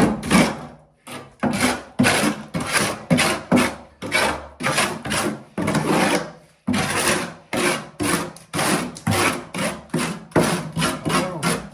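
Rhythmic rasping strokes of a hand tool worked back and forth, about two strokes a second, each a rough scrape.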